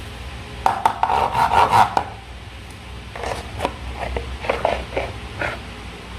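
Hands working slime and a rubber balloon: a run of rubbing, squishing noises about a second in, then a scatter of shorter clicks and squishes.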